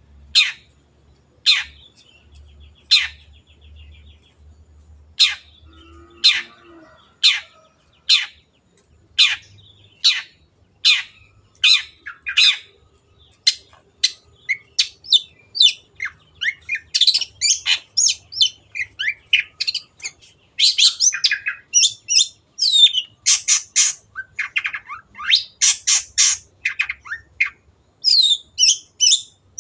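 Long-tailed shrike (cendet) calling in a series of short, harsh notes, spaced about a second apart at first, then coming faster and crowding into dense rapid runs from about halfway on.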